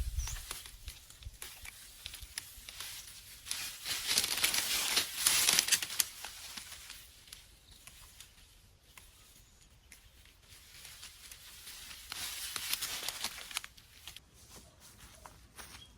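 Dry plant material being handled, rustling and tearing, loudest in two stretches about four and twelve seconds in, with small snaps and clicks between.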